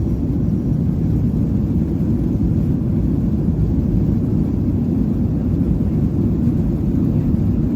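Steady low rumble of an airliner cabin, the engines and airflow droning evenly with no change in pitch.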